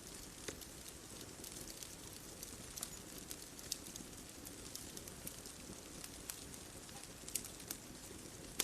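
Bonfire crackling: sharp pops and snaps of burning wood, a few a second and irregular, over a steady low rumble of the flames.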